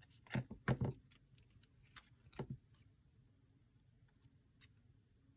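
A few short knocks and clicks from paper craft pieces and tools being handled on a work table, clustered in the first couple of seconds, the loudest pair just under a second in.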